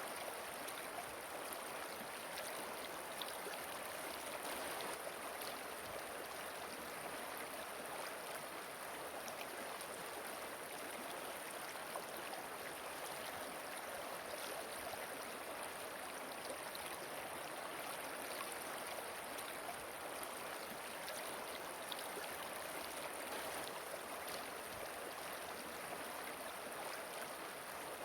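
Steady rush of flowing river water, an even splashing hiss with no breaks or changes.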